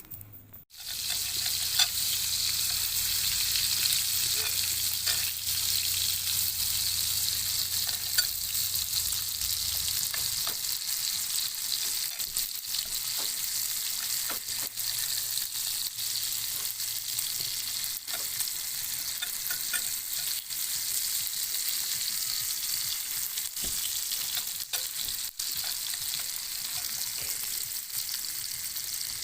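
Campfire of burning wood: a steady hiss with many scattered sharp crackles and pops, starting abruptly about a second in.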